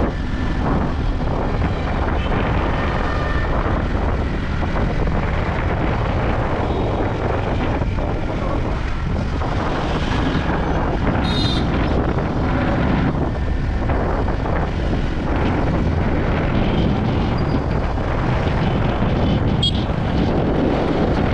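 Yamaha MT-15's single-cylinder engine running steadily while the bike is ridden, under a constant rush of wind noise on the microphone.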